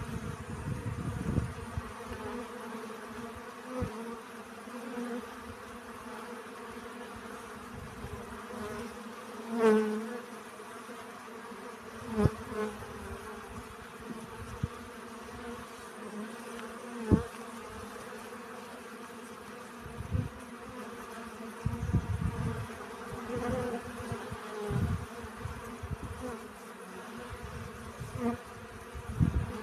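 Bees buzzing as they forage for pollen: a steady hum of many bees, with single bees growing louder and bending in pitch as they fly close by, several times.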